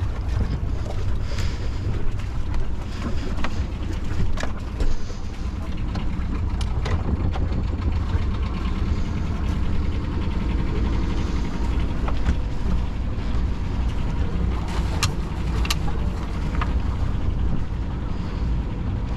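Boat under way on engine power, with a steady low engine rumble mixed with wind and water rush. Sharp knocks and clicks come through now and then.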